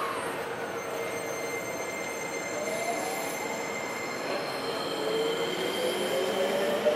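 Seibu Railway electric commuter train pulling out of the platform: a motor whine rises slowly in pitch as it picks up speed, over the noise of the rolling wheels.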